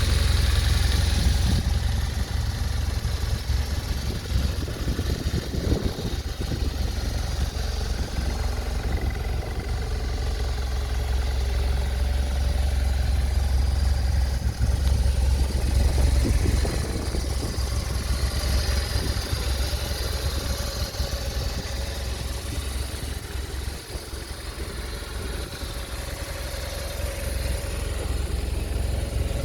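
A 2008 BMW R1200RT's air/oil-cooled boxer twin engine idling steadily.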